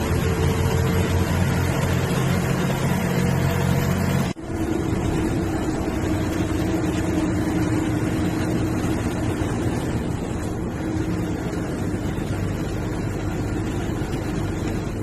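Bus engine running steadily with road noise as the bus drives. The sound cuts out for an instant about four seconds in and comes back with a changed engine note.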